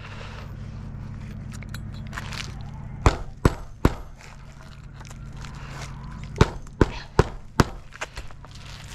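Nails being driven into a roof shingle: seven sharp strikes, three in quick succession about three seconds in and four more a few seconds later. A steady low hum runs underneath.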